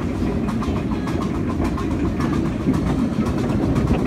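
Miniature railway train running along its narrow-gauge track, heard from an open passenger car: a steady low rumble with rapid, regular clicking from the wheels and track.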